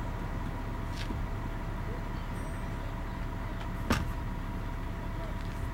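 An engine running steadily with a low rumble, with one sharp knock about four seconds in.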